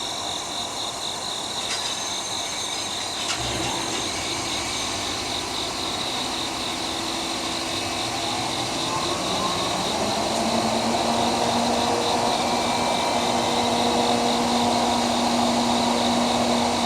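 Diesel locomotive engine running, rising in pitch about eight to ten seconds in and then holding a steady, louder hum. A high pulsing buzz runs throughout.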